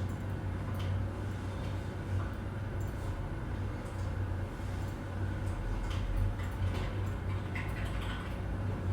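Office ambience: a steady low hum under scattered faint clicks and knocks, with a low thump about six seconds in.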